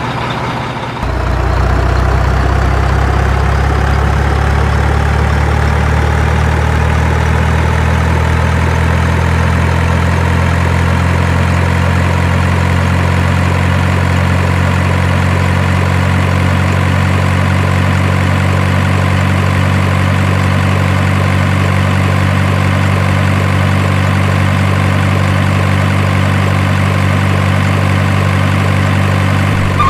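Steady engine idling: a low, even hum that comes in about a second in and holds, with a faint whine slowly rising in pitch above it.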